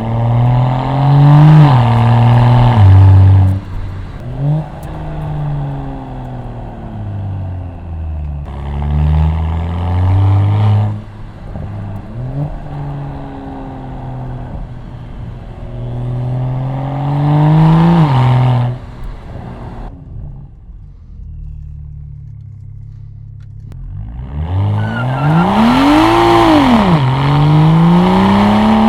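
BMW 335i turbocharged inline-six through a muffler-deleted exhaust, heard from a microphone at the rear bumper. There are several hard accelerations, each with the engine note climbing and then cutting off sharply at a shift or lift-off, with quieter cruising between them. Near the end one rev climbs, falls and climbs again.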